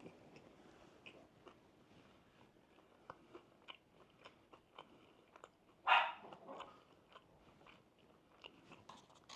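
Close-up chewing of a coated fried chicken fillet: soft, scattered crunches and mouth clicks, with one louder crunch about six seconds in.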